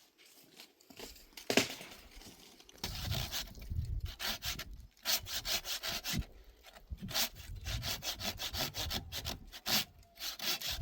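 Hand saw cutting through wood for firewood in quick, rhythmic back-and-forth strokes. A single sharp crack comes about a second and a half in, before the sawing starts.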